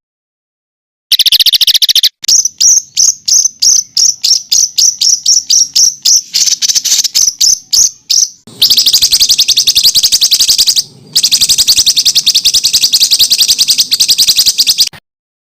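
Songbird calls from a bird-song training recording. A brief buzzy trill comes first, then a run of sharp repeated notes that quicken, then two long, dense rattling trills with a short break between them. This is the rapid, hard 'tembakan rapat' (close-fired) style of song used to teach competition songbirds.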